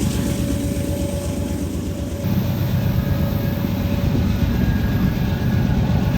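BNSF freight train passing: a steady low rumble of diesel locomotives and rolling cars, with a faint steady whine above it. The sound changes abruptly about two seconds in.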